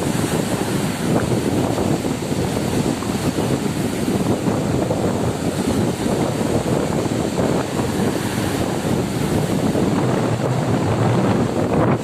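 Strong wind buffeting the microphone over the steady noise of heavy surf breaking on the shore.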